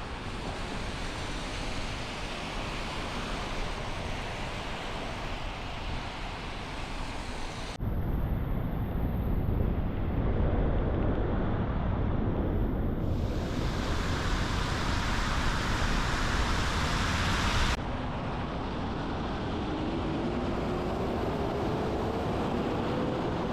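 Car driving on a wet road in the rain: a steady hiss of tyres on wet pavement and rain. Its character changes abruptly about eight and eighteen seconds in, and a faint rising whine comes in near the end.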